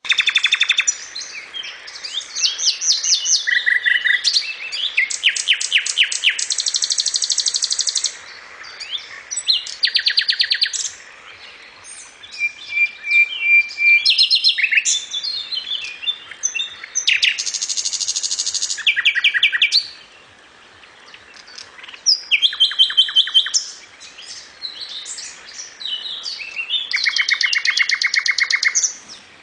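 Common nightingale singing: a run of varied loud phrases, many made of rapidly repeated notes, separated by short pauses.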